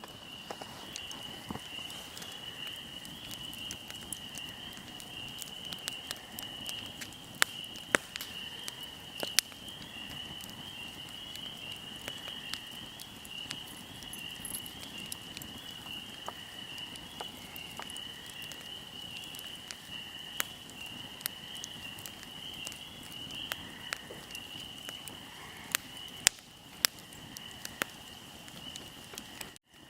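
Wood fire crackling, with irregular sharp pops, a few much louder than the rest. Under it runs a steady high insect trill.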